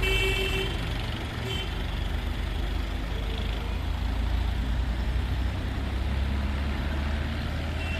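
Tractor engine running steadily on the road, a low rumble, with a vehicle horn tooting briefly at the start and again about a second and a half in.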